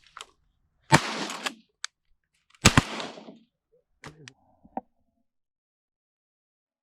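Two shotgun blasts about a second and a half apart, each trailing off over about half a second, followed by a few small clicks.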